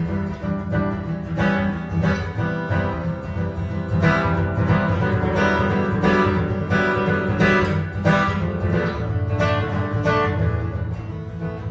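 Improvised jazz guitar playing: a quick run of plucked notes over a steady bed of low notes, easing off in level near the end.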